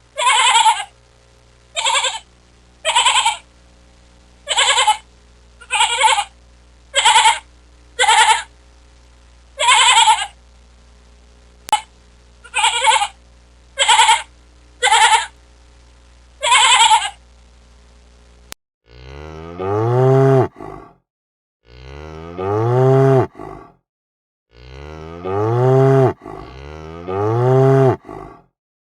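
A series of about thirteen short, high animal calls roughly a second apart, then, after a cut, a cow mooing four times in long, low calls.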